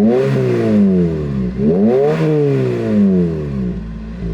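A car engine revved repeatedly: the engine note climbs quickly and falls back twice, each cycle lasting about two seconds.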